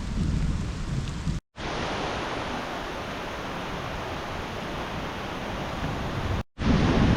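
Heavy rain falling as a steady hiss, with a low rumble under it at first. The sound drops out for an instant about a second and a half in, and the rain then goes on as an even hiss without the rumble. It drops out again near the end, and the rumbling rain comes back.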